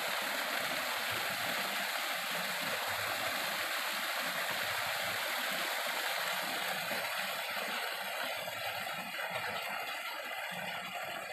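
Waterfall: a steady rush of falling water, easing slightly in the last few seconds.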